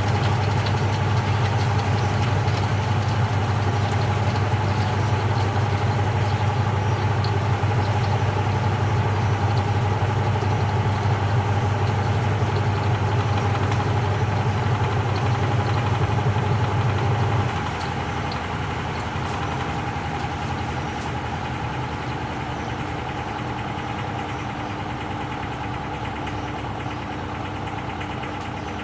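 Samsung 6.5 kg top-loading washing machine running on a quick cycle, a steady mechanical hum. About two-thirds of the way through the loud low part of the hum cuts off and the sound drops, leaving a quieter, steady hum with a different tone.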